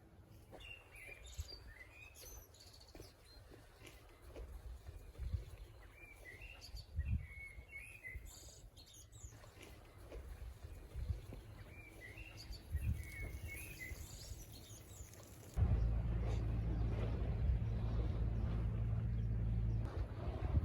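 A bird singing short chirping phrases, three bursts a few seconds apart. Near the end a steady low rumble starts suddenly and covers it.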